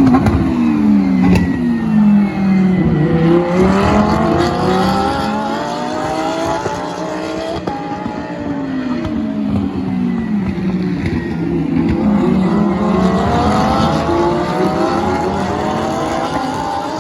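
Lamborghini race car engine running hard, its pitch sliding down and climbing back up several times as the revs fall and rise. The sound cuts off abruptly at the end.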